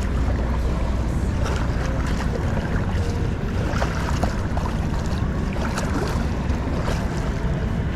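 Water splashing and lapping around a kayak, with irregular small splashes over a steady low rumble of wind on the microphone.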